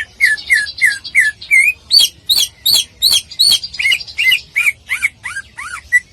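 Green leafbird (cucak ijo) singing a fast run of loud, sharp whistled notes, about three a second. Many notes sweep down in pitch and some hook upward near the end.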